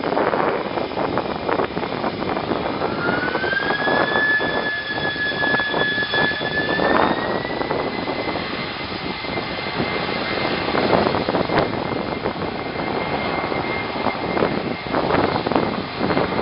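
Jet aircraft engines running over a steady roar, with a whine that rises in pitch about three seconds in and again about seven seconds in as the engines spool up.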